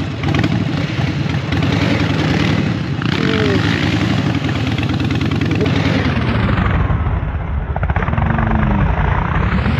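Motorcycle engines running, with the pitch rising and falling a few times as the throttle is worked.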